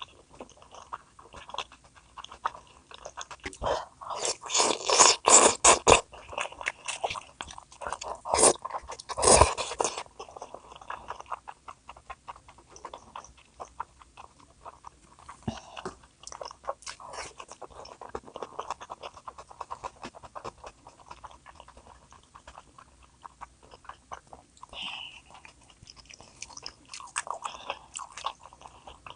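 A person eating close to the microphone: biting and chewing food, with many small wet clicks and crackles, and a cluster of louder crackling bites about four to six seconds in and again around nine seconds.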